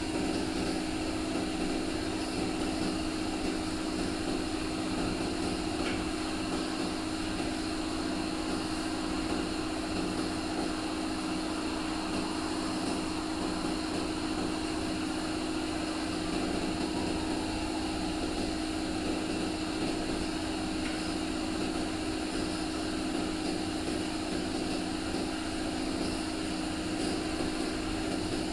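A machine running steadily: a constant humming tone under an even hiss.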